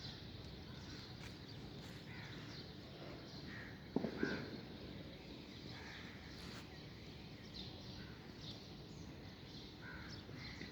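Birds calling outdoors: scattered short chirps over a steady low hiss, with two loud harsh caws about four seconds in, like a crow.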